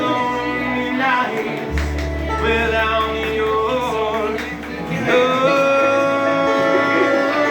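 Bluegrass song playing: long held and sliding melody notes over a low bass line, with no lyrics sung.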